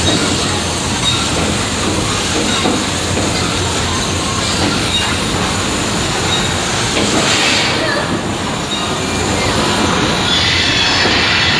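Loud, continuous rumbling and clatter of a staged special-effects earthquake with a subway train on rails, including the screech of train wheels. A brighter rushing noise swells near the end.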